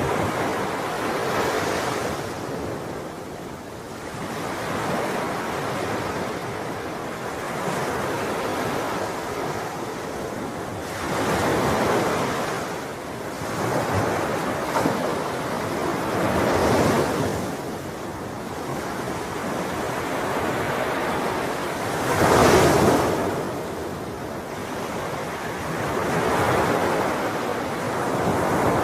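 Ocean waves breaking and washing on the shore, a steady wash of surf that swells and eases every few seconds, with its loudest surge about two-thirds of the way through. Some wind on the microphone.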